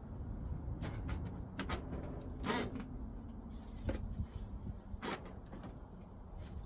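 A handful of separate wooden knocks and a short scrape, a second or so apart, as lumber for a small roof frame is handled and fitted, over a steady low rumble.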